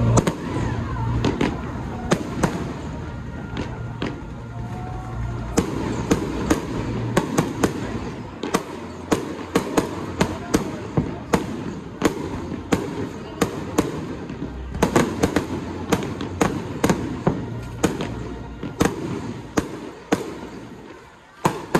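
Fireworks going off: a long run of sharp bangs and pops, coming thick and fast through the middle and latter part, over a steady crackling rumble.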